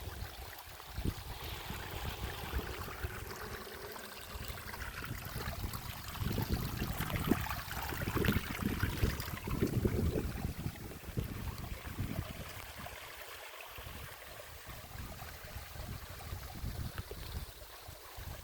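A steady rush of moving water with uneven low rumbling underneath, swelling louder for a few seconds in the middle.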